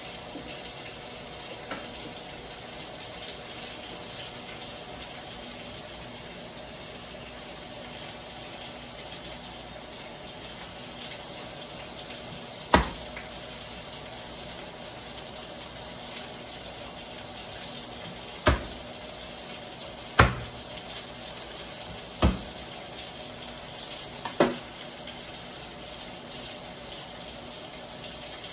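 Tofu frying in oil in a wok, a steady sizzle, with five sharp knocks of a chef's knife on a plastic cutting board in the second half as garlic cloves are prepared.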